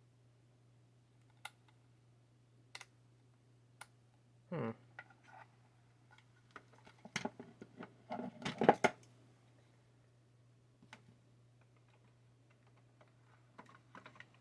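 Scattered clicks and light clattering of 3D printer kit parts being handled, with a short scrape about four and a half seconds in and a busier run of knocks and rattles around eight to nine seconds in.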